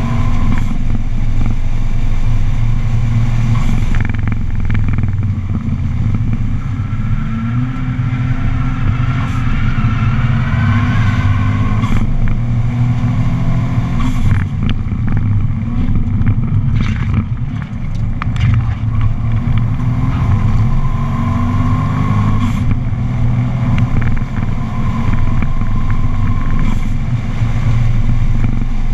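Subaru's engine heard from inside the cabin, pulling hard on a circuit lap, its revs climbing and dropping several times as it runs through the gears, over tyre and wind noise. The sound eases briefly a little past halfway.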